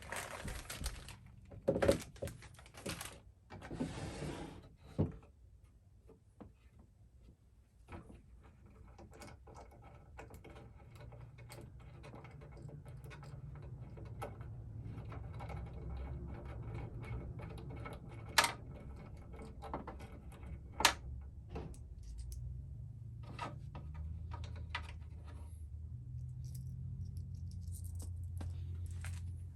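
Small objects being handled: rustling and knocks at first, then a long run of light clicks and taps with two sharper knocks about eighteen and twenty-one seconds in, over a low hum that grows louder toward the end.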